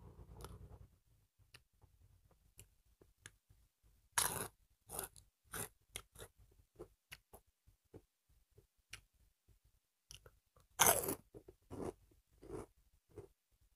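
Close-up chewing and crunching of crisp fried snacks eaten by hand, in irregular crunches. The loudest bites come about four seconds in and again about eleven seconds in.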